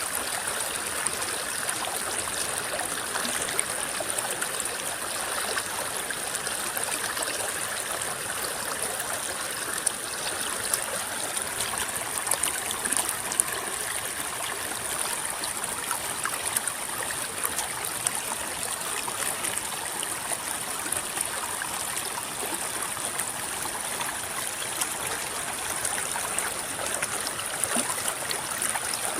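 Shallow river water babbling and rippling steadily, full of small splashes and trickles.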